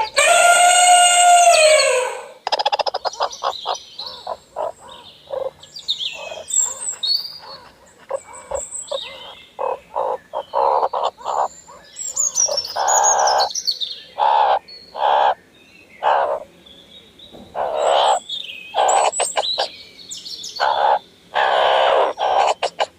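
Birds calling: a loud drawn-out call at the start, then a flurry of quick chirps and whistles, and later a run of repeated short, harsh calls.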